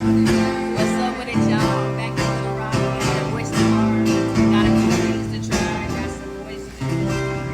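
Acoustic guitar strumming chords, an instrumental passage with the chords changing about every second.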